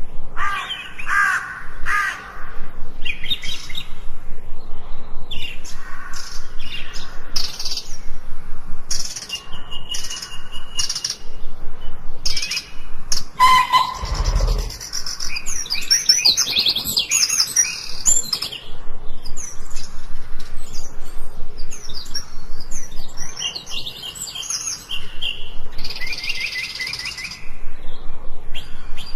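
Several songbirds chirping and trilling, one after another and overlapping, with short high notes and fast rattling trills. A brief low thump sounds about halfway through.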